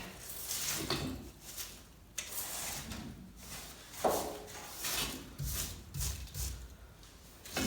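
Ash and debris being swept inside a wood-burning fireplace, a series of brushing, scraping strokes at irregular intervals, the strongest about four seconds in.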